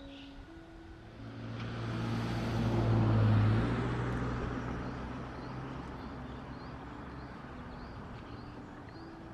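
A road vehicle passing close by, with a steady low engine hum under the noise. It swells over about two seconds, peaks a little after three seconds in, then slowly fades.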